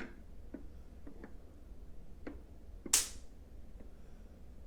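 Faint handling noises: a few small clicks and one brief swish about three seconds in, over a low steady hum.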